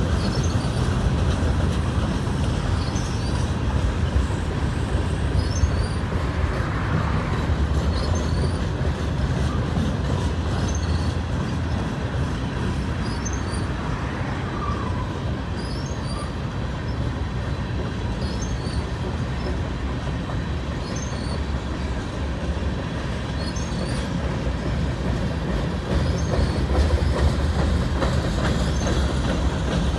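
CN freight train rolling past on the line, a steady rumble of wheels on rail.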